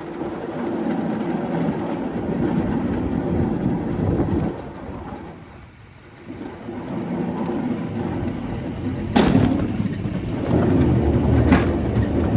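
Pallet jack rolling loaded pallets across a trailer floor: a heavy rumbling that dies away about halfway through and starts up again, with two sharp knocks near the end.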